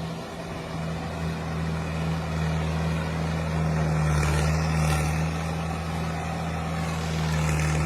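Tractor engine running steadily under load, a low even drone.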